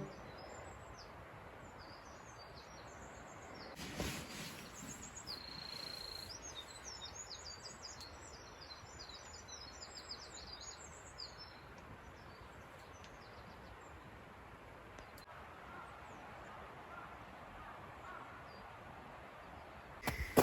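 Quiet outdoor ambience with small birds chirping: quick runs of short high calls and one held note over the first half, then fading out. A brief rustle about four seconds in.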